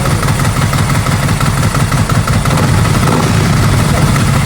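Ducati Monster's 90-degree V-twin idling steadily through a Termignoni exhaust, with an even, loud, lumpy pulse.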